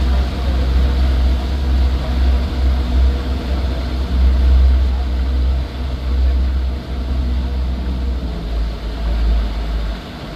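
Engines of a six-engine boat running under way, a steady drone under heavy wind buffeting on the microphone that eases near the end.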